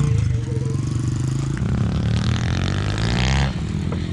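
Small mini-bike engine running, revving up from about one and a half seconds in and dropping off sharply near the end.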